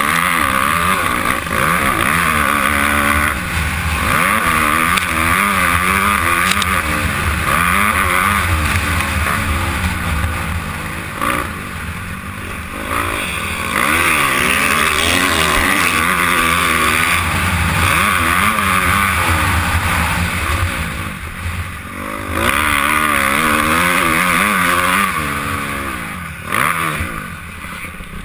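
Honda CRF250R four-stroke single-cylinder motocross engine racing under load, its pitch rising and falling over and over as it revs up and shifts, with wind rush on the helmet mic. The throttle is rolled off briefly a few times.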